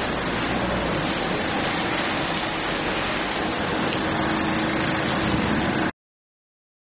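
Heavy rain falling steadily into a puddle, an even hiss of drops splashing on water. It cuts off abruptly about six seconds in.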